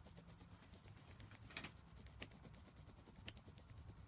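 Faint, rapid scratching of dark green colour being shaded back and forth on paper, with a few light taps.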